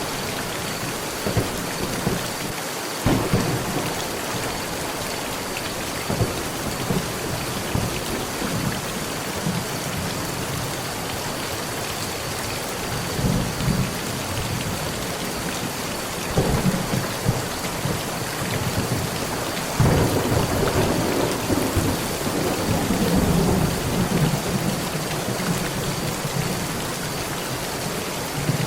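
Heavy rain falling steadily on a metal roof, with thunder: sharp claps about three, sixteen and twenty seconds in, the last swelling into a long low rumble that fades over several seconds.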